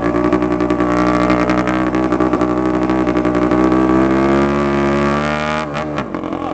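Dirt bike engine running under throttle. Its pitch climbs through the middle, then falls off sharply near the end as the throttle is let off.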